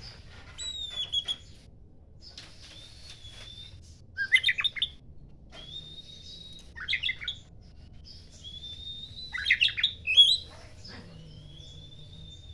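Oriental magpie-robin (kacer) singing: long drawn-out whistled notes that slide up and then hold steady, alternating with loud bursts of rapid chattering notes, four such bursts in all.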